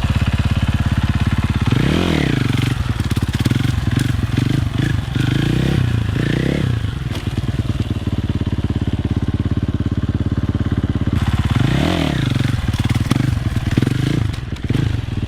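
Dirt bike engine running, revved sharply up and back down about two seconds in and again about twelve seconds in, with smaller throttle blips in between.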